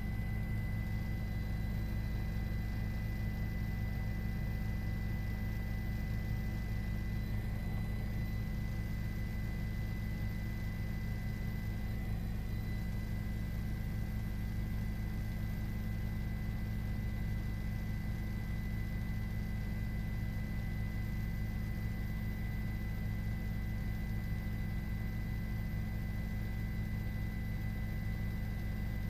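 Steady low vehicle drone, unchanging, with a faint constant high whine on top.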